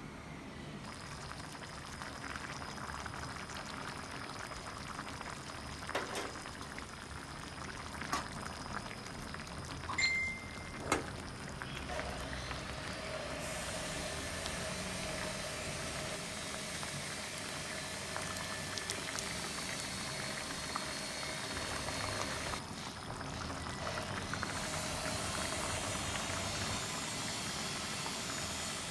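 Fish cooking in a pan on the stove, giving off a steady hiss, with a few sharp clicks of a utensil against the pan near the middle.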